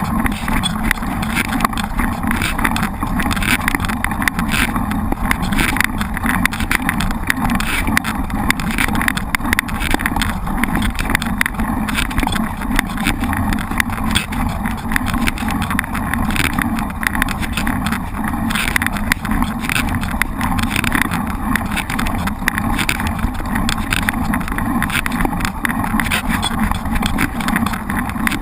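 Mountain bike in motion on a trail: steady rushing noise from wind and tyres, with frequent small knocks and rattles from the bike going over rough ground.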